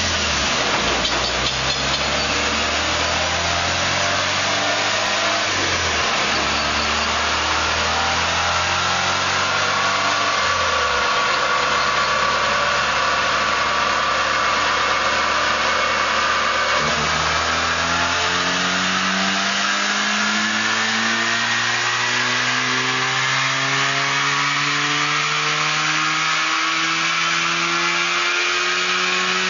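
Mazda RX-7's rotary engine running on a chassis dyno. Its note holds fairly low and steady, stepping a couple of times, then from a little past halfway the revs climb steadily in a long rising pull.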